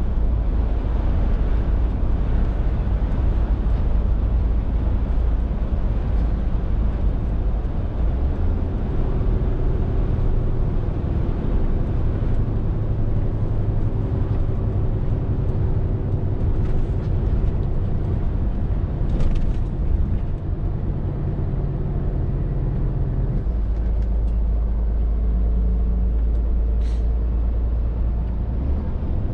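Scania R450 lorry's 13-litre six-cylinder diesel engine running under way, a steady low drone whose pitch steps several times as engine speed changes.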